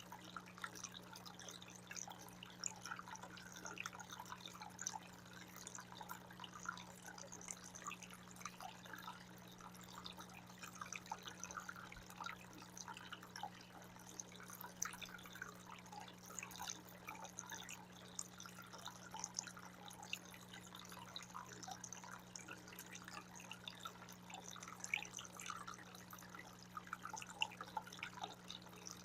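Water fountain trickling and dripping steadily: many small splashes and drips, over a steady low hum.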